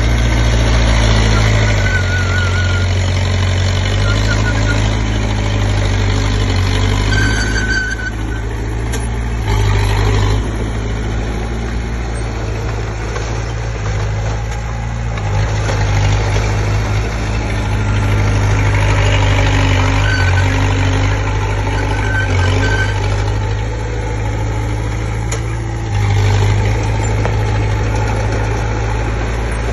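Komatsu D20P bulldozer's diesel engine running under varying load, its low note swelling and easing every few seconds, with a few short high-pitched squeaks.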